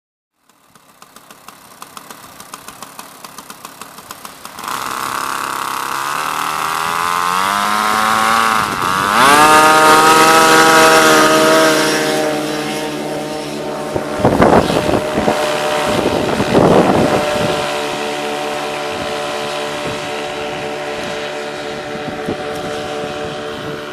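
Paramotor engine running at low revs, then throttled up with a steadily rising pitch to full power for takeoff, holding high and then settling to a steady climb-out pitch. Two brief rushing noises come in the middle.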